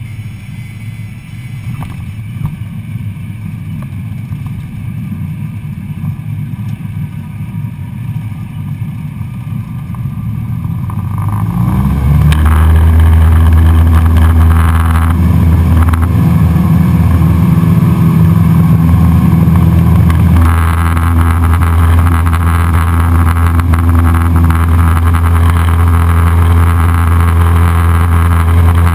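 Cessna 172SP's four-cylinder Lycoming engine running at low power, then throttle advanced about 11 seconds in, rising quickly to a loud, steady full-power drone, as when power is added for a takeoff.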